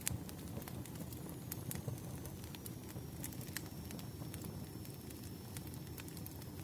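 Crackling wood fire: irregular sharp pops and snaps over a low, steady rumble.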